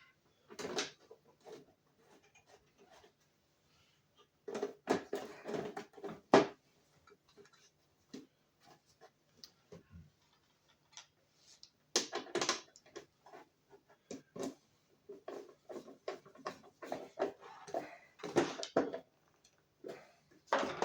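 Small hard parts and tools being handled: intermittent clicks, taps and clattering in short bursts, with a faint steady hum underneath.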